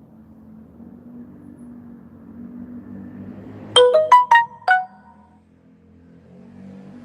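A short electronic chime of five quick notes at different pitches, like a phone ringtone or notification tone, sounds about halfway through over a steady low hum.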